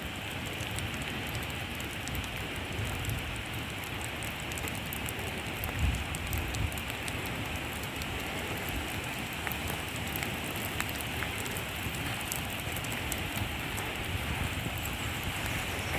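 Steady rain falling, a constant hiss dotted with the small clicks of individual drops, with a single low thump about six seconds in.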